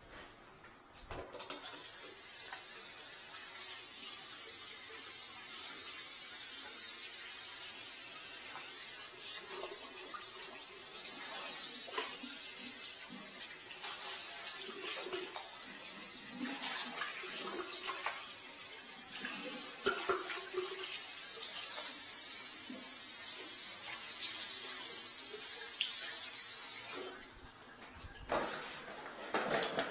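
Water running steadily from a tap, with scattered clinks and knocks; it starts about a second in and stops shortly before the end.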